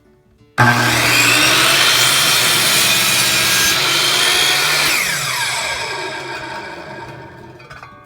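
Hitachi 10-inch compound miter saw starting suddenly about half a second in, its blade cutting through a board at 45 degrees. About five seconds in the trigger is let go and the motor winds down with a falling whine.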